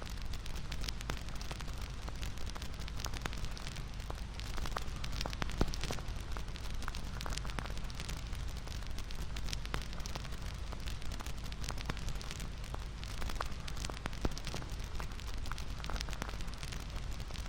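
Wood fire crackling: a steady low rumble and hiss with frequent sharp pops and snaps.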